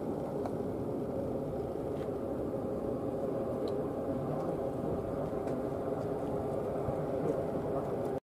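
Aircraft engines running with a steady rumble and a faint held hum. It cuts off abruptly near the end.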